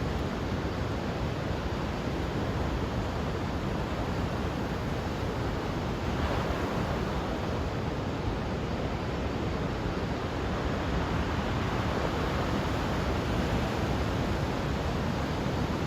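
Heavy ocean surf from a big typhoon swell breaking on a beach: a steady rushing wash of waves, with one wave breaking more strongly about six seconds in.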